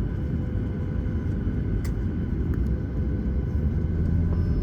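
Steady low rumble of a Boeing 737-900ER's cabin, heard from inside, with a faint steady hum over it. A single light click comes about two seconds in.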